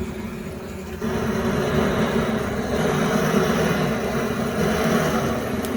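Electric air blower running steadily, blowing air into a wood fire to get it burning; its motor comes up a notch about a second in.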